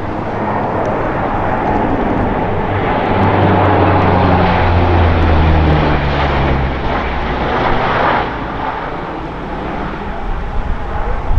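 A fixed-wing aircraft flies overhead. Its engine noise swells to a peak about halfway through and then eases off. Its low tones slide down in pitch as it passes.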